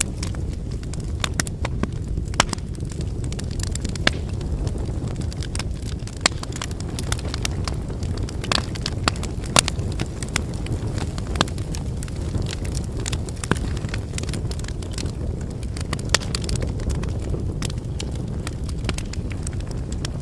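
Wood bonfire burning: a steady low rush of flames with frequent, irregular sharp crackles and pops from the burning firewood.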